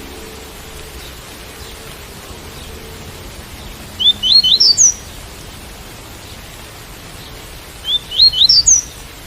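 Coleiro (double-collared seedeater) singing the 'tui-tui' song: two short phrases of quick rising notes, about four seconds apart, over a steady hiss of rain.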